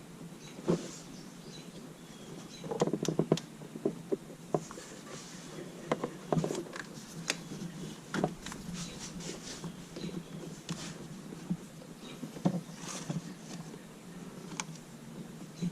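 Irregular clicks, taps and light knocks of tools and parts being handled during engine work, coming in small clusters with pauses between them.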